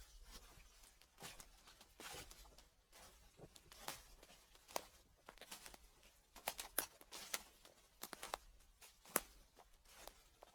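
Footsteps crunching through dry fallen leaves: irregular crisp crackles and rustles, quiet overall, with a sharper crackle about nine seconds in.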